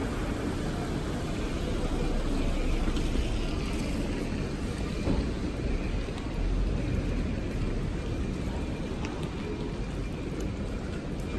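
City street ambience with road traffic passing: a steady rushing noise over a low rumble, swelling a little now and then.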